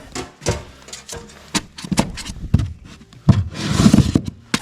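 Scattered sharp knocks with rubbing and scraping, the loudest stretch a rough scraping about three seconds in.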